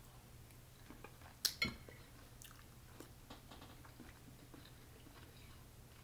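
A person chewing a spoonful of seafood boil with rice: soft wet mouth sounds and scattered small clicks, with two sharper clicks about a second and a half in.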